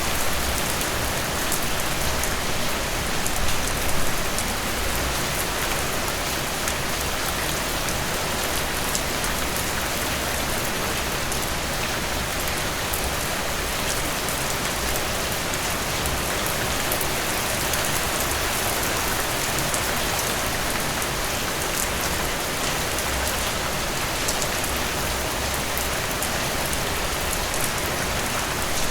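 Steady rain falling, a continuous hiss with individual drops ticking through it.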